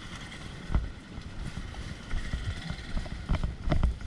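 Off-road vehicle running over a rough dirt trail: a low rumble with wind buffeting the microphone and irregular knocks from bumps, one about a second in and several near the end.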